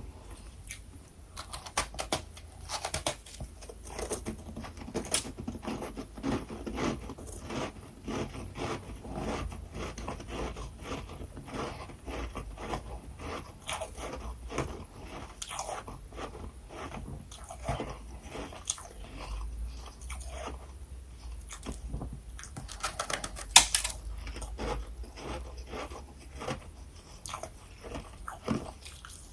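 Close-up crunching and chewing of freezer frost: many quick, irregular crunches as mouthfuls are bitten and chewed, with a louder burst of crunches about three quarters of the way through.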